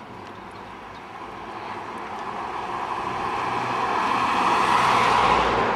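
A train approaching, its running noise swelling steadily louder to a peak near the end, then starting to pass and fade.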